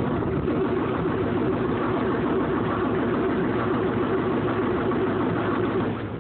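M35A2 deuce-and-a-half's multifuel engine being cranked on the starter in freezing cold, fed mostly used motor oil with no ether or flame heater. It cranks hard for about six seconds without catching, and the cranking stops just before the end.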